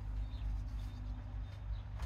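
Birds chirping faintly a couple of times over a low, steady rumble.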